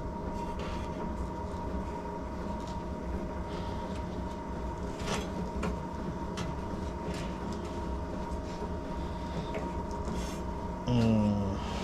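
Light knocks and scrapes as a pipe is pushed onto a fitting, over a steady droning hum. Near the end there is a short, louder sound that falls in pitch.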